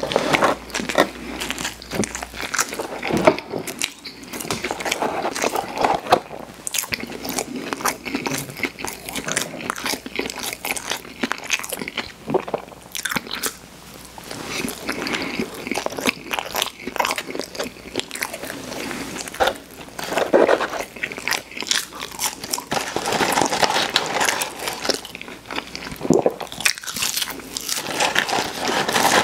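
A person chewing and biting into McDonald's burgers and sandwiches: a dense, irregular run of small mouth clicks and snaps throughout.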